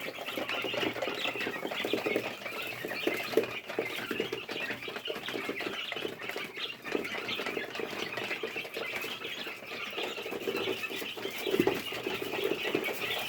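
A flock of 25-day-old Fayoumi chicks cheeping and chirping continuously, with scattered short knocks among them.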